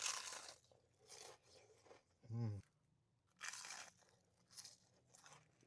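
Close-up eating sounds of crispy fish and chips: a few short, crisp crunching bites and chewing, with one brief low voiced sound from the eater about halfway through.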